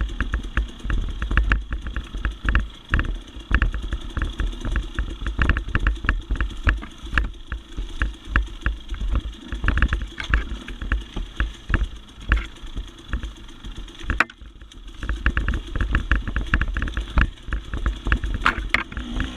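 Dirt bike engine running under changing throttle on a rough trail, with many short clattering knocks from the bike bouncing over the ground. The engine eases off briefly about two-thirds of the way through.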